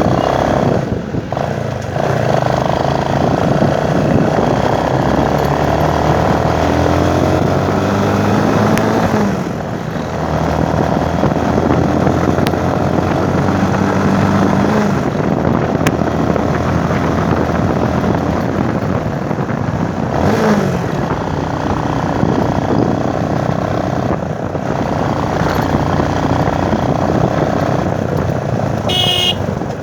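Motorcycle engine running while riding, its pitch rising and falling several times with the throttle, and dipping briefly a few times as it shifts gear.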